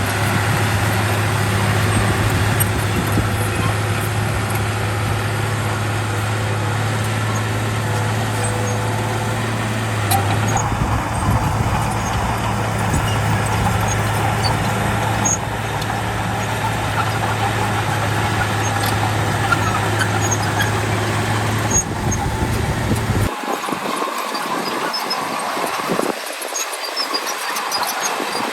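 Heavy diesel earthmoving machinery running steadily under work, with scattered small metallic ticks and squeaks. Its low engine drone drops away about 23 seconds in, leaving a thinner mechanical clatter.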